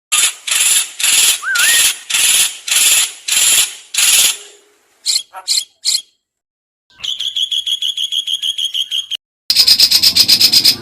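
Songbird calls, spliced together: a harsh, rasping note repeated about twice a second nine times, three short sharp notes, then a fast chattering trill of about eight notes a second, and a louder rapid series that cuts off abruptly near the end.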